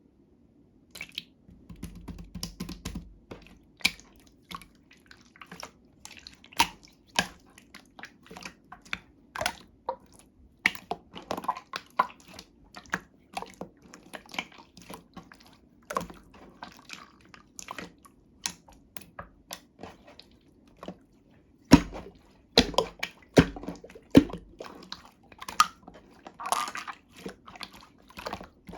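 Slime being squished and poked by hand, making a run of irregular clicks and small pops, loudest about three quarters of the way through.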